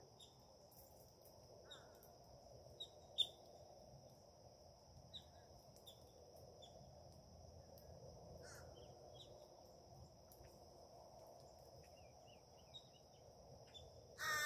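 Faint birdsong: scattered short high chirps, with two distant crow caws about two seconds in and again past the middle, over a steady high-pitched whine and a low background hum.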